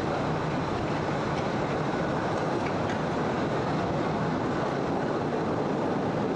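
Postojna Cave tourist train running along its track: a steady, even rumble of the moving cars.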